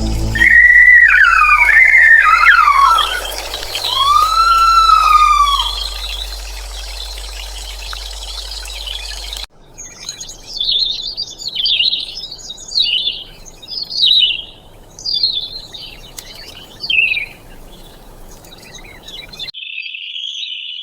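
Bird calls, as two separate recordings. First come a few loud, sliding, arching whistled calls. After a sudden cut, a songbird sings a series of about seven short, high, warbled phrases, and a steady high tone follows near the end.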